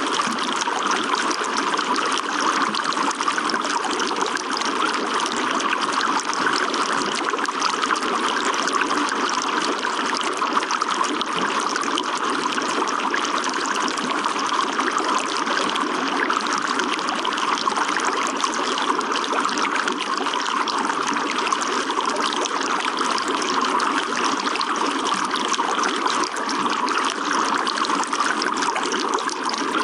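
Running water trickling steadily, a light, even flow without low rumble that holds unchanged throughout.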